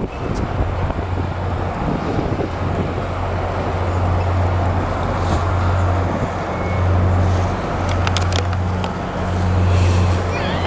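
Outdoor city ambience on a waterfront walk: a steady low hum under a haze of traffic-like noise, with a few sharp clicks about eight seconds in.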